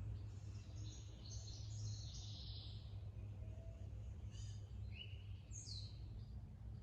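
Wild songbirds chirping, with clusters of short notes and, near the end, a falling whistle, over a steady low rumble.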